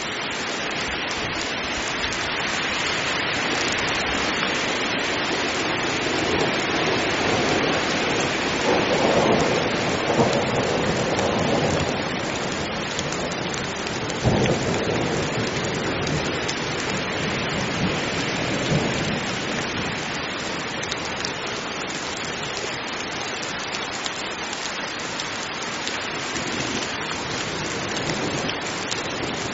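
Heavy rain falling steadily, with thunder rumbling through the middle: a long swell building from about a fifth of the way in, a sudden crack about halfway, then further rumbles.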